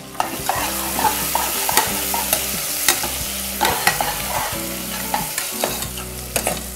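Chopped onion and green chillies sizzling in hot fat with whole spices and nuts, stirred with a metal ladle that knocks and scrapes against the metal pot several times.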